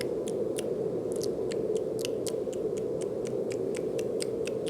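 Steady brown noise, a deep even hiss, with a quick run of light ticks on top, about four or five a second.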